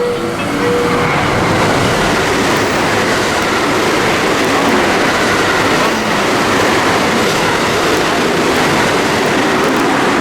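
An electric train running past the station platform at speed. It makes a loud, steady rush of wheel and air noise that holds level throughout.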